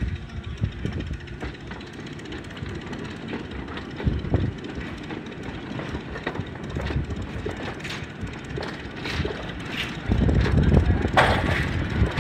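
A rake of empty narrow-gauge wagons rolling slowly past, wheels clicking and clanking over the rail joints. About ten seconds in a louder low rumble comes up as the locomotive draws near.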